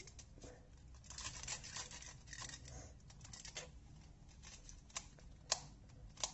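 Pyraminx puzzle being turned by hand, its plastic pieces giving a faint, irregular run of clicks and scrapes, with a couple of sharper clicks near the end. The puzzle is new out of the box and turns very loosely.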